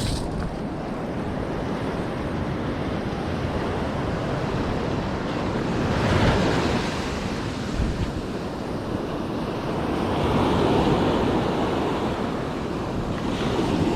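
Ocean surf washing up the beach with wind buffeting the microphone; the wash swells louder about six seconds in and again near ten seconds.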